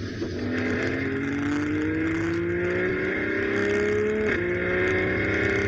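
BMW M340i's turbocharged straight-six, running an MHD Stage 2 tune, under hard acceleration: the engine note climbs steadily, drops once with an upshift about three-quarters of the way through, then starts climbing again.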